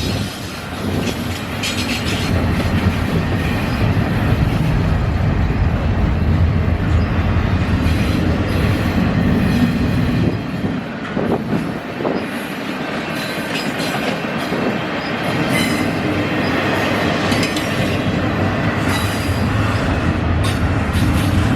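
A train rolling past at close range, its wheels running loud and steady on the rails, with some wheel squeal.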